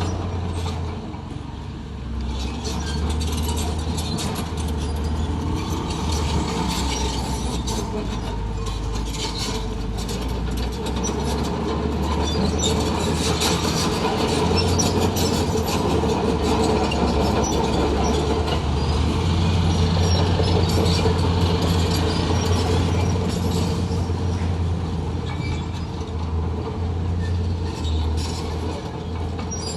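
Komatsu D41P crawler bulldozer working: its diesel engine runs steadily under the dense clanking and squeaking of its steel tracks, with the engine load swelling somewhat in the second half.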